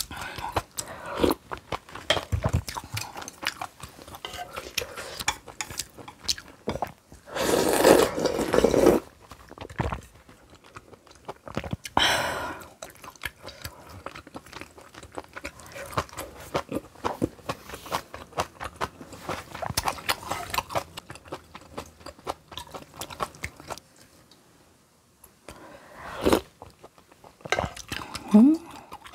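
Close-miked eating: steady chewing and crunching, with a longer loud noisy burst around eight seconds and shorter ones later.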